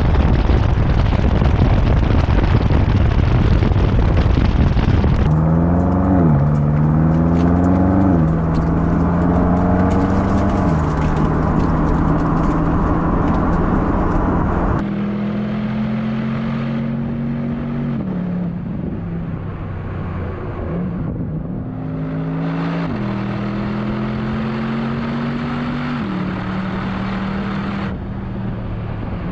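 BMW M8 Competition's 4.4-litre twin-turbo V8 accelerating hard on the road. About the first five seconds are mostly loud wind and tyre rush. The engine note then climbs in pitch and drops back at each upshift, and later rises and eases as the car drives on.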